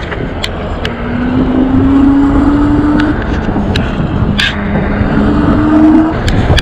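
Wind buffeting the microphone and road rumble from a moving e-bike, with the hub motor's whine rising slightly in pitch twice as it pulls, and a few sharp ticks.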